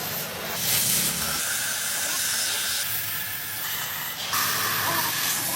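Steady, strong hissing that changes abruptly in tone a few times.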